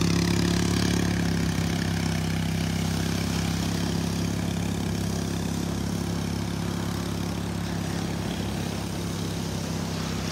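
Steady low engine hum, fading slowly, over the wash of surf.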